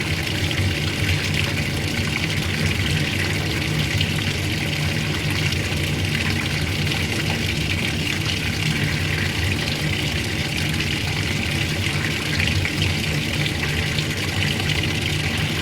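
Old-style washing machine running steadily: a low motor hum under a constant rush of water.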